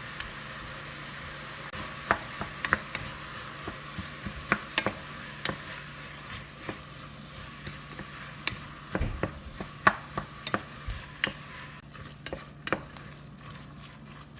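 Berbere and tomato sauce sizzling in a frying pan while it is stirred, with irregular clicks and scrapes of the utensil against the pan.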